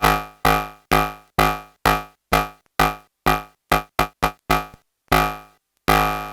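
SxLab Fortress experimental synthesizer playing a patch: repeated notes at one pitch, each starting sharply and fading, about two a second. The notes come faster past the middle, then after a short pause a longer note is held near the end.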